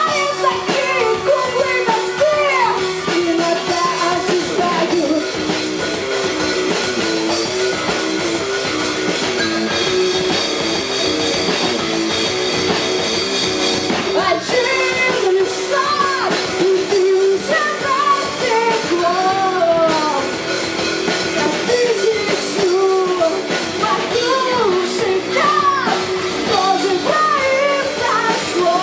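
Live rock band playing with drums and guitar and a lead singer; the vocals drop out for an instrumental stretch of several seconds and come back about halfway through.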